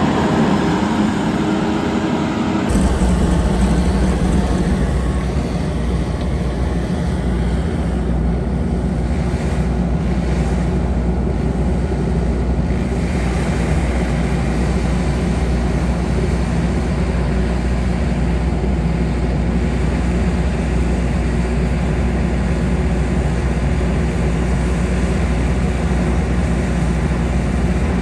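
Diesel vehicle engine running steadily under load, with an abrupt change in the sound about three seconds in.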